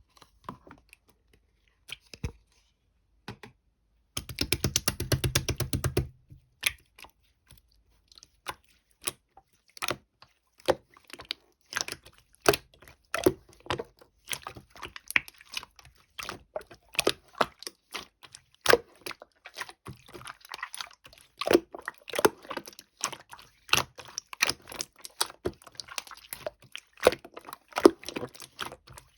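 Irregular clicking, tapping and crinkling of small objects being handled, with a rapid rattle about four seconds in that lasts about two seconds.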